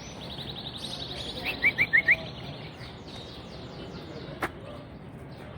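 Small caged songbirds chirping: a fast run of high, trilled notes, then four sharp, loud chirps in quick succession about one and a half seconds in. A single sharp click comes later.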